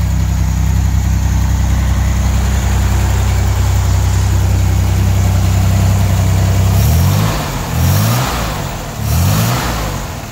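A 1963 Corvair Monza Spyder's turbocharged air-cooled flat-six idles steadily, then is revved three times by hand at the carburetor's throttle linkage, the pitch rising and falling with each blip about a second apart.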